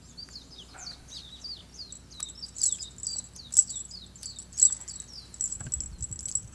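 Small songbirds chirping and twittering: a rapid, continuous run of short, high, downward-sweeping notes, with louder calls about once a second in the middle.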